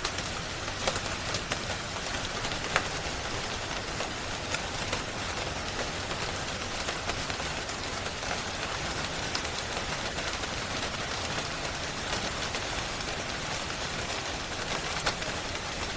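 Steady, dense rain hiss with a few sharp crackles from a wood fire scattered through it, the sharpest in the first few seconds.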